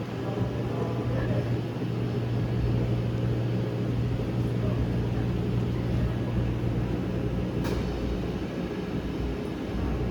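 Electric train at a station platform giving a steady low hum over the platform's background noise, with one sharp click about three-quarters of the way through.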